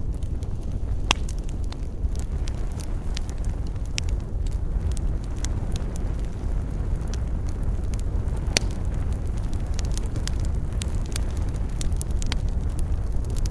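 Campfire burning: irregular sharp crackles and pops of the wood over a steady low rumble.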